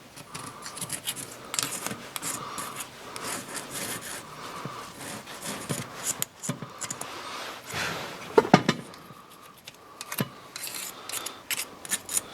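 Hand work on motorcycle engine parts: irregular rubbing and scraping with scattered clicks and knocks as the parts are handled.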